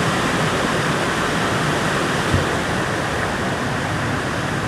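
Waterfall rushing steadily, with a brief thump just past halfway.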